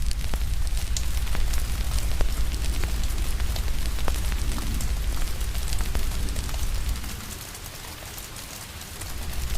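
Steady rain hiss mixed with a fire crackling in many small sharp pops. A low rumble underneath fades out for a couple of seconds near the end, then returns.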